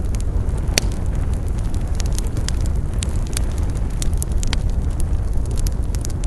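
Wood campfire crackling, with frequent sharp pops over a steady low rumble; one loud pop comes about a second in.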